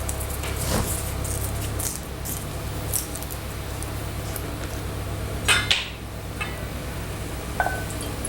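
Kitchenware clinking and knocking a few times as a measuring cup is handled to measure out red wine vinegar, the loudest pair of knocks about five and a half seconds in, over a steady low hum.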